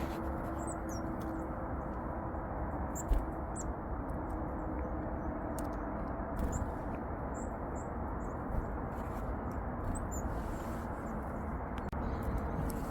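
Small songbirds giving short, high, thin calls several times over a steady low background rumble.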